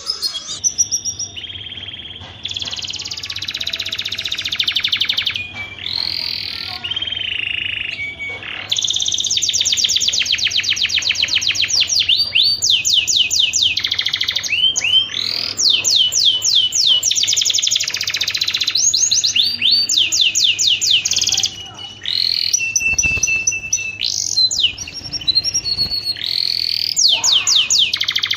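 Domestic canary singing: long, rapid, high-pitched trills and rolling phrases of repeated gliding notes, with only brief pauses between phrases.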